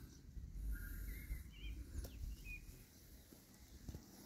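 A few short, curling bird chirps over outdoor background noise, with a low rumble loudest in the first half.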